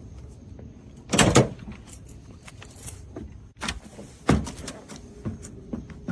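A few sharp knocks and clunks: a loud double knock about a second in, another near four and a half seconds, with lighter clicks and taps between them.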